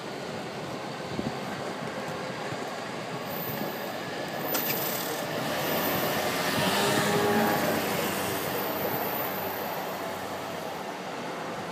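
Electric commuter train running along the tracks below: a steady rail rumble that swells to its loudest a little past the middle and then eases away, with a single sharp click about four and a half seconds in.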